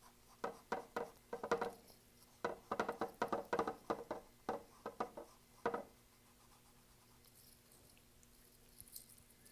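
Paintbrush dabbing acrylic paint onto a stretched canvas: a run of quick soft taps for about five seconds, then it stops.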